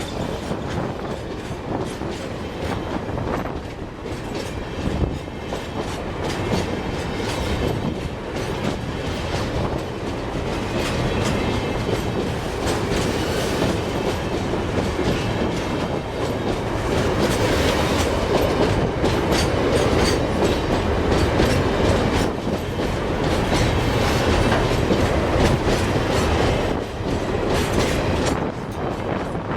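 Long freight train's wagons rolling past, wheels clacking over the rail joints in a steady run of knocks, a little louder in the second half.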